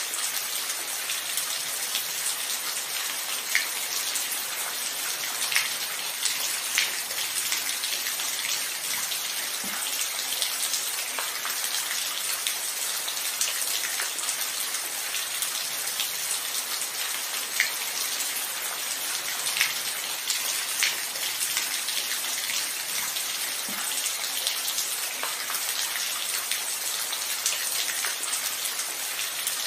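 Steady rain falling, a constant hiss with many distinct drops ticking close by on a surface.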